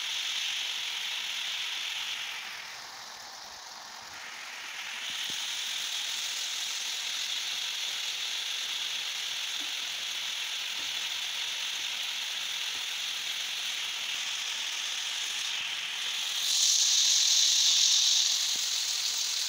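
Goat liver (kaleji) frying on a tawa, a steady sizzle and hiss. It quietens briefly about three seconds in and grows louder late on as a cloud of steam rises. The masala water is cooking off and the ghee is separating, so the kaleji is nearly done.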